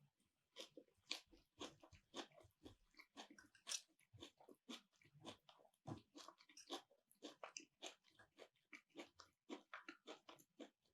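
A person chewing food close to the microphone: faint, irregular crunching and wet mouth clicks, several a second.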